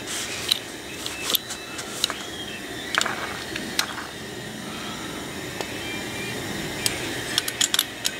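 Light, scattered clicks and taps of a Corvair distributor and its metal parts being handled during reassembly, a small cluster of clicks near the end, over a steady background hum.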